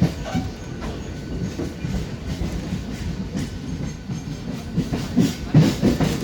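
Passenger train running, heard from inside the coach: a steady rumble with the wheels clacking over rail joints, and a louder run of clacks near the end.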